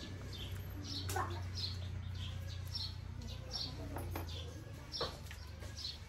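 A bird chirping over and over, short high chirps about two a second, alternating slightly in pitch, with a few faint clicks. Underneath is a low steady hum that stops about three quarters of the way through.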